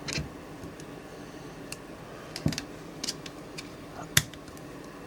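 Scattered sharp clicks and light knocks of tools and objects being handled and set down on a workbench, the loudest knock a little past four seconds in.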